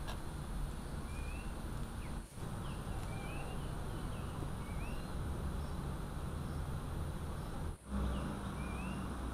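Outdoor ambience: a steady background hiss with a bird's short rising chirps, about six of them spread through the stretch.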